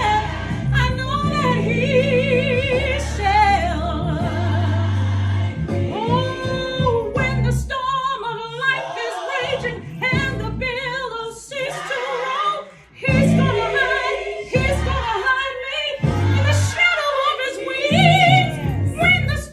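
Gospel song: a singer holds long, wordless notes with heavy vibrato and runs over an accompaniment with low held bass notes.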